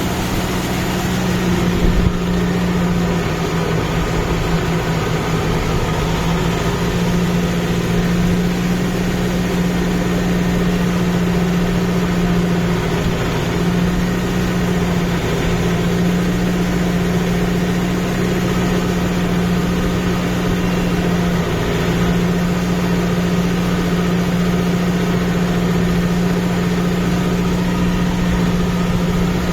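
Kubota MU5502 tractor's four-cylinder diesel engine running at a steady speed, with a single brief thump about two seconds in.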